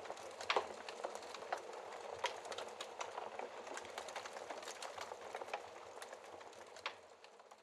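Wood fire crackling in a fireplace: a steady hiss with irregular sharp pops and snaps, the loudest about half a second in, fading out near the end.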